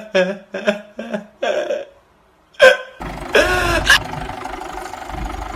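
Short voice-like bursts, several a second, for about two seconds, then a brief gap and one loud sharp burst. From about three seconds in, a Mahindra tractor engine is running steadily, with a short voice-like sound over it.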